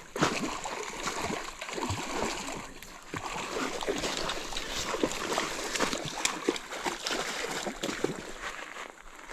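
Water splashing, with many irregular short splashes and knocks over the steady rush of a river.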